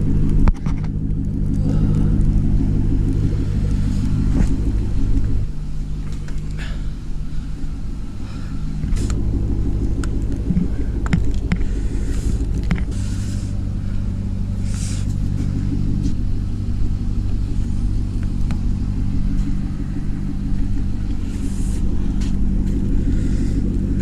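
Chevrolet Corvette V8 idling steadily while warming up in the cold, with scattered light clicks and scrapes over it.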